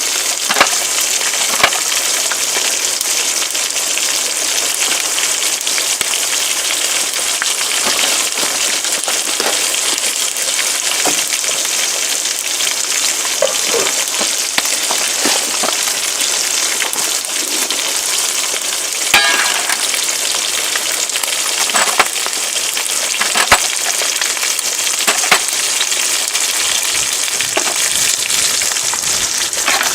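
Food frying in a pan: a steady sizzling hiss with scattered sharp pops.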